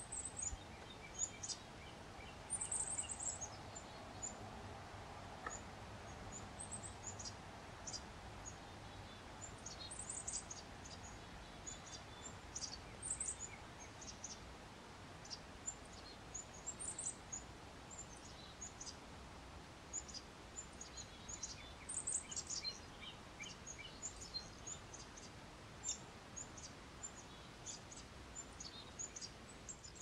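Small birds chirping in short, high notes, scattered irregularly throughout, over a steady soft hiss of light rain.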